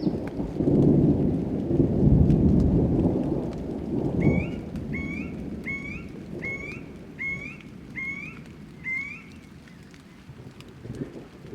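A roll of thunder rumbles over steady rain for the first four seconds or so. After it a bird calls seven times, short rising whistled notes about two-thirds of a second apart, while the rain keeps falling.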